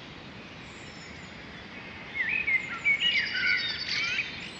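Birdsong over a steady background hiss: quick chirps and short whistled notes, some sliding up and down in pitch, begin about two seconds in.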